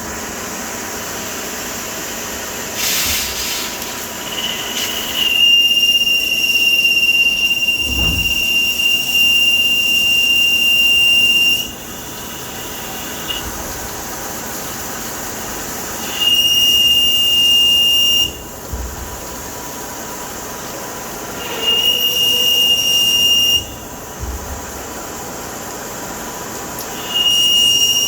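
CNC lathe cutting hard steel: the tool squeals with a loud, piercing, steady pitch in four spells, one of about six seconds and three of about two seconds, while the machine hums steadily between them.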